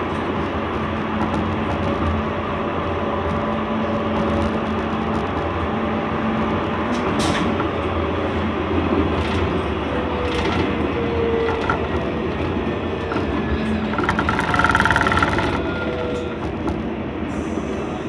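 Running noise of a C-class (Alstom Citadis) tram heard from inside the car while under way: a steady rumble of wheels on rail with the motors' faint whine drifting in pitch, and scattered clicks. About fourteen seconds in there is a brief, louder burst of high-pitched noise.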